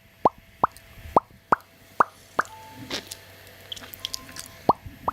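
A series of about eight short, identical rising plops, irregularly spaced, with a pause of about two seconds in the middle.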